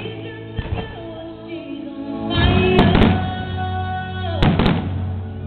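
Music with long held chords, broken by sharp firework bangs: one about half a second in, then two loud pairs, near three seconds and about four and a half seconds in.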